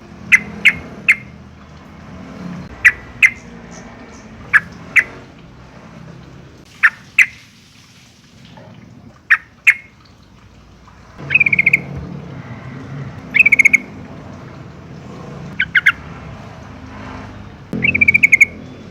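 Yellow-vented bulbul calling: sharp, short notes in pairs and threes, then from about halfway several quick rattling chatters, over a faint low hum.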